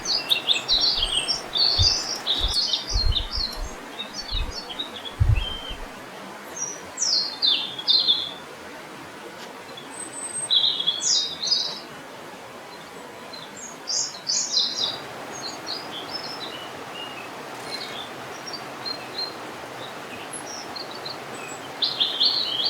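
Bursts of high-pitched bird chirps and squeaky calls, some sliding in pitch, come and go over a steady background hiss. A few short low thumps come in the first six seconds.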